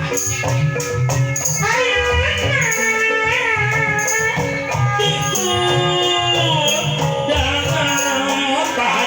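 Live Sundanese jaipongan music: a steady pattern of hand drums and gamelan with a rattling percussion layer. About two seconds in, a male sinden's high, ornamented vocal enters in a voice that sounds like a woman's, sliding between notes; it breaks off briefly and comes back near the end.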